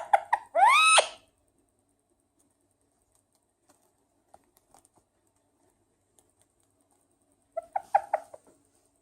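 Indian ringneck parakeet calling: a few quick chirps and a loud rising squawk in the first second or so. Then a quiet stretch with faint clicks, and a burst of rapid chirps near the end.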